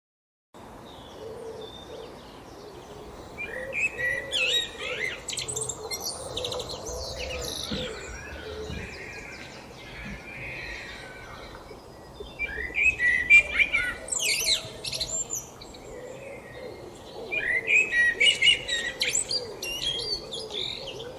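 Wild songbirds singing: three bursts of varied, quickly changing high song about 3, 12 and 17 seconds in, over a lower wavering call repeated throughout.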